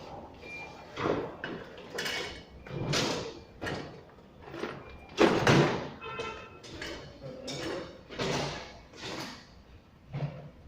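Repeated clunks, scrapes and rattles from an automatic sliding door's panel and mechanism being handled during repair, about one a second, with a sharper, louder knock about five seconds in.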